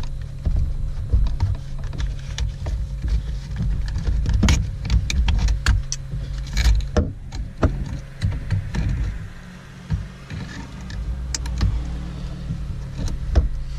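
Scattered clicks and knocks of plastic dash trim and wiring being handled during refitting of a car's heater and air-conditioning control panel, over a steady low hum.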